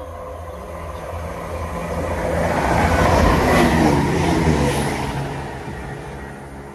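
A train passing through the station at speed. Its noise grows to a peak about halfway through, falls in pitch as it goes by, and fades away.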